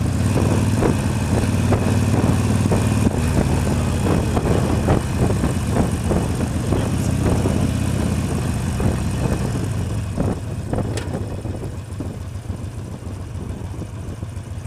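Motorcycle engine running steadily under the rider, heard from a microphone tucked inside the helmet liner, with a constant low drone. It is louder for the first ten seconds or so, then eases off.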